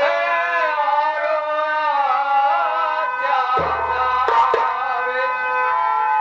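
A man sings a Bhojpuri nautanki folk-theatre song with wavering, held notes over instrumental accompaniment. A drum stroke with a few sharp hits comes about three and a half seconds in.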